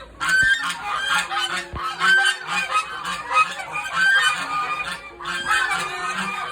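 Domestic waterfowl calling: many short honking calls overlapping, with a brief lull about five seconds in.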